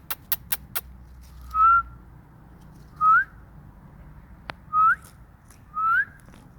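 Four short rising whistles, each about a third of a second long and spaced a second or more apart. A quick run of sharp clicks comes just before them, near the start.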